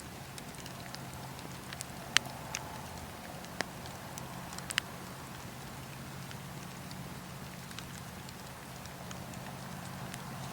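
Campfire burning, its wood crackling with scattered sharp pops and snaps, a few louder ones between about two and five seconds in, over a steady low hum.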